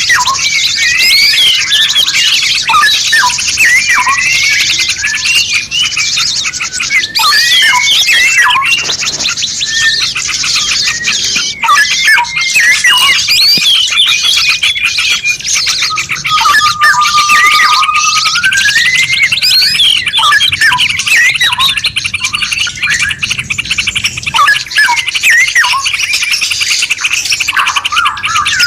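Several songbirds singing at once: dense overlapping chirps, whistles and trills over a steady high hiss, with one long held whistle about halfway through that rises at its end. It is a layered bird-song 'masteran' mix of the kind played to teach captive songbirds.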